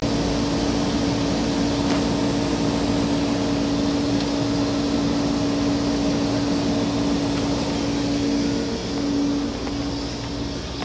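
Vintage Welbilt window air conditioner running: a steady rush of air from its fan with a constant machine hum.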